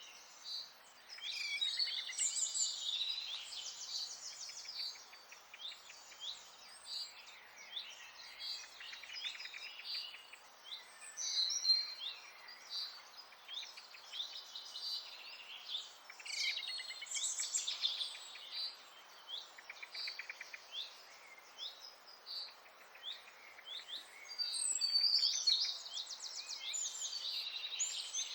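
Several songbirds singing together: overlapping quick chirps and rapid trills, with no pause, over a faint steady hiss.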